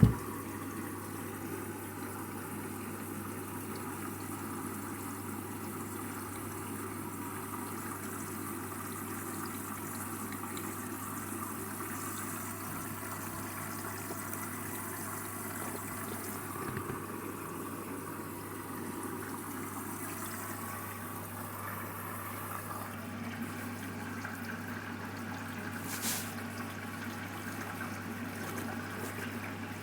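Water running through a Candy washing machine, a steady rush with a low hum, as the machine takes in or pumps out water. A sharp click right at the start and a faint click about 26 seconds in.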